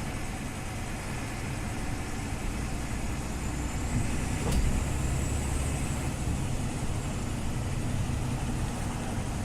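Scania OmniLink CL94UB city bus's engine running, growing louder about four seconds in, with a single sharp click soon after and a faint high whine that rises and then falls away.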